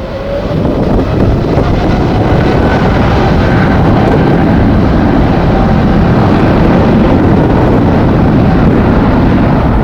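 Jet airliner engines running loud and steady with a faint whine, swelling over the first second, mixed with strong wind buffeting the microphone.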